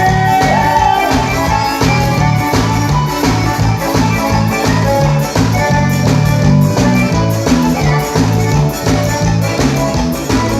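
Forró band music, mostly instrumental here: a steady pulsing bass line and regular beat under a melody line.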